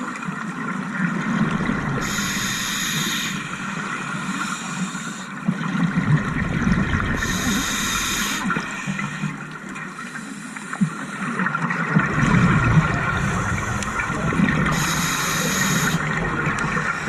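Scuba diver breathing through a demand regulator underwater: three short hissing inhalations, each followed by a longer burst of bubbling and gurgling exhaled bubbles.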